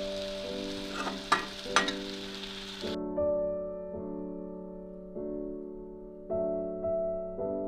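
Soft piano background music, with food sizzling in a frying pan for the first three seconds and two sharp clinks of a stirring utensil. The sizzling then cuts off abruptly, leaving only the piano.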